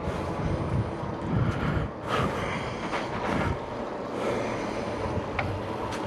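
Steady rumble and rush of riding an electric bike, tyre and wind noise on the microphone, swelling in a few gusts.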